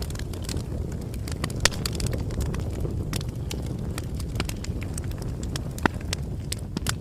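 Bonfire crackling: a steady low rumble of burning wood with frequent small pops and snaps, two sharper pops about two seconds and six seconds in.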